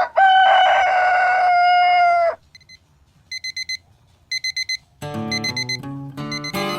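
A rooster crows once, a single drawn-out call of about two seconds. It is followed by two quick runs of four electronic alarm-clock beeps, and acoustic guitar music starts about five seconds in.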